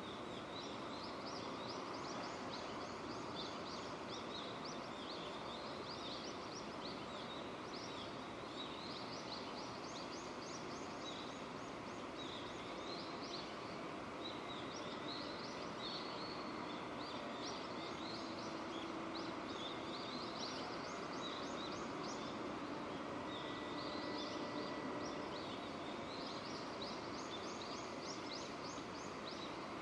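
Steady rain falling, with clusters of rapid high chirping calls repeating throughout.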